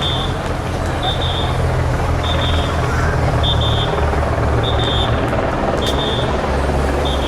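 Yamaha FZ6 Fazer's inline-four engine running steadily, a low drone. Over it, a short high double beep repeats about once a second.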